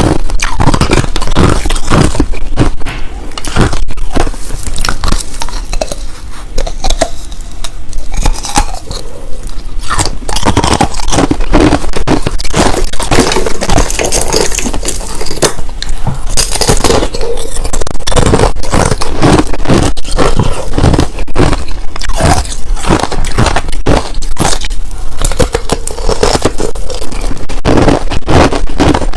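Crushed ice, a mix of clear and powdery ice, being bitten and chewed, close-miked. Dense, continuous crunching and crackling with scrapes, slightly quieter for a few seconds early on before picking back up.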